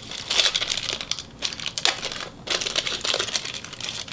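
Irregular rustling and crinkling of trading cards and their packaging being handled and flipped through.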